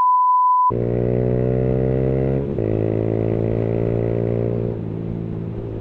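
A one-second steady bleep tone dubbed over the audio, then a Yamaha YBR 125's single-cylinder engine running through a Leo Vince GP Corsa exhaust while the bike is ridden. The engine note dips in pitch about two and a half seconds in, holds steady, then eases lower and quieter near the end.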